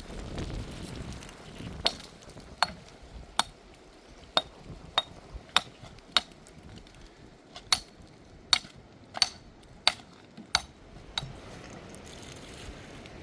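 A series of about fifteen sharp clinking strikes, one or two a second, each with a brief ring, after a short low rumble at the start.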